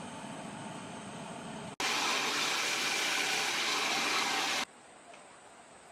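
Mountain stream water rushing steadily as an even hiss, heard in three spliced clips: moderate at first, much louder and closer from about two seconds in, then suddenly quieter and more distant for the rest.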